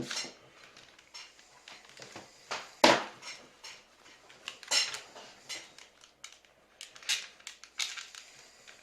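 SteelSeries Siberia V2 headphones being handled and flexed, giving an irregular series of sharp plastic clicks and small creaks, the loudest about three seconds in. The hinges have been treated with silicone lubricant against their creaking.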